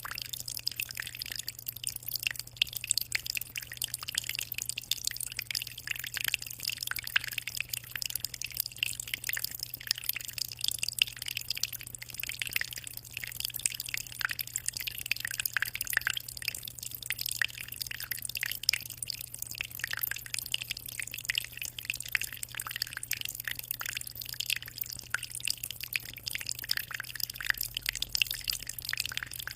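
Aquarium water trickling and splashing continuously: a dense, even patter of small drips and bubbles at the surface, over a steady low hum.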